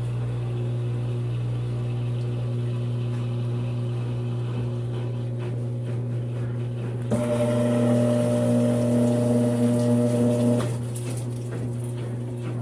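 Brastemp 5 kg washing machine spinning its load, its motor giving a steady hum. About seven seconds in, a louder, higher motor whine comes in for about three and a half seconds, then drops back. The drum spins without the knocking of an unbalanced load.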